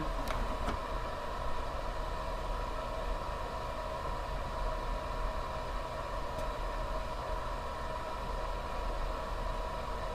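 Two light clicks just after the start as the 80-amp bulb load is switched on, then a steady hum with a faint high tone while the LiPo battery discharges through the bulbs.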